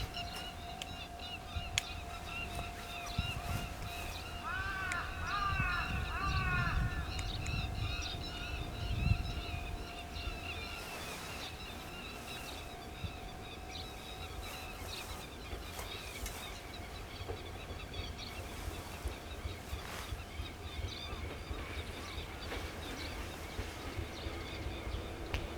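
Birds chirping and calling, with a short run of arched, repeated calls about five seconds in, over a low steady rumble.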